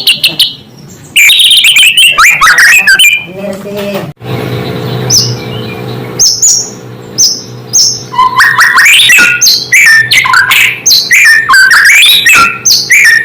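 White-rumped shama (murai batu) singing loud, varied phrases of quick rising and falling whistled notes. There is a short phrase early, then a long dense run in the second half. A low steady hum fills the pause between them.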